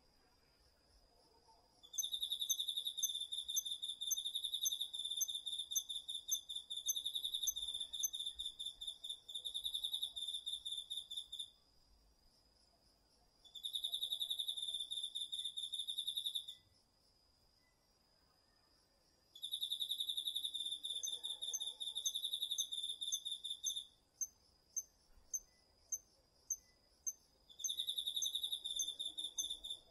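Autumn insects singing, crickets among them: one loud high-pitched trill comes in bouts of a few seconds with short pauses between, over a faint steady high ringing from other insects. In the last pause before the final bout, and again at the very end, there is a run of sharp separate chirps, a little under two a second.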